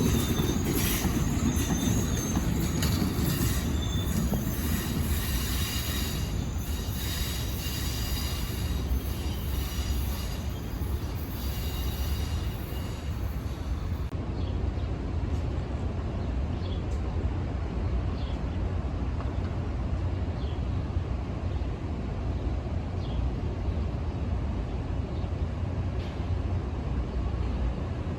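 Train rolling past with its wheels squealing on the rails; the squeal stops abruptly about halfway through, leaving a steady low rumble.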